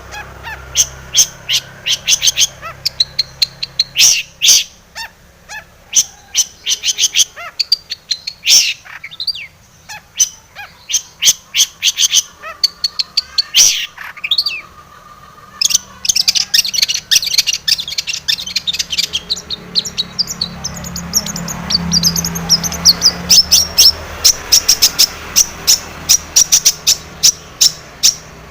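Long-tailed shrike (cendet) singing vigorously in fast runs of short, sharp chattering notes, with a short lull about halfway through before a denser run.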